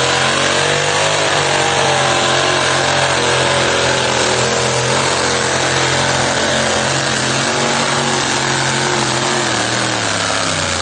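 Super modified two-wheel-drive pulling truck's engine running flat out as it drags the sled down the track. Its pitch sags slowly under the load and falls away near the end.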